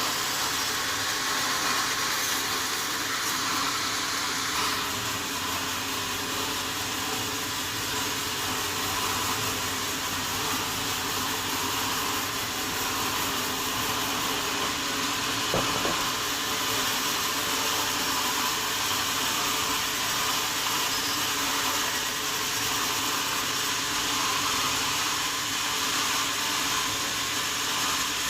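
Sawmill saw machinery running steadily, an even mechanical noise with one short knock about halfway through.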